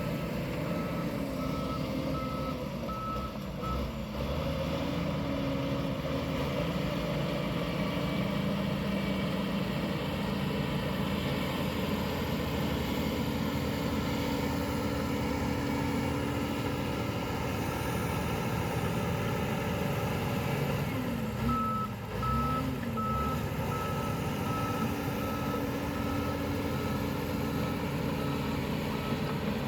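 Heavy construction machine's diesel engine running, with its reversing alarm sounding regular beeps during the first few seconds and again through the last third.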